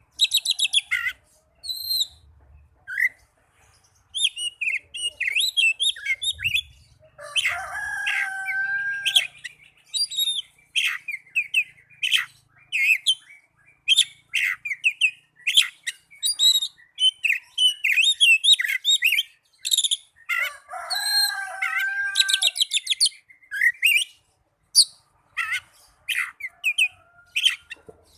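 Oriental magpie-robin (kacer) singing in aggressive fighting mode: a fast, varied run of whistles and rapid chattering notes, broken twice by a harsh, buzzy rasp, about seven seconds in and again about twenty-one seconds in.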